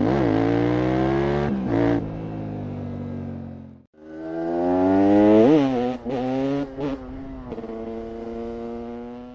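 KTM 690 SMC R's single-cylinder LC4 engine through a full LeoVince exhaust, accelerating hard: the revs climb, break at a gear change, then fall away. After a brief cut about four seconds in, it revs up again to a peak and drops back, with short breaks in the sound as the revs come down.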